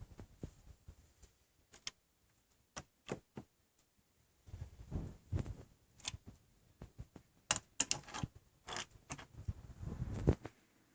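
Irregular small clicks and soft low knocks, scattered unevenly, like something being handled on a table.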